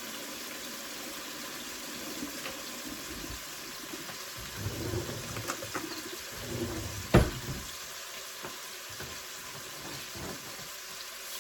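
Water running steadily from a kitchen tap, with small clatters and one sharp knock about seven seconds in.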